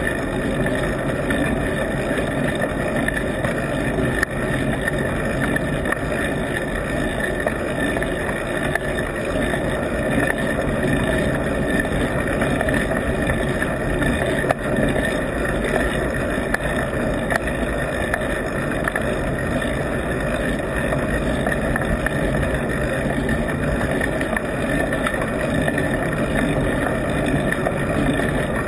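Steady wind and road rush at a camera mounted on a moving bike, with a faint steady whine over it and a couple of brief knocks, about four and fourteen seconds in.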